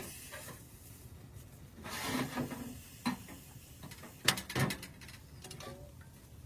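Handling noises: a brief rustle about two seconds in, then several sharp knocks, the loudest a close pair about four seconds in.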